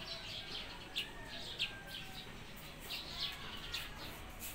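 Birds chirping: a busy run of short, high chirps, several a second, many of them falling in pitch, with a couple of brief knocks in between.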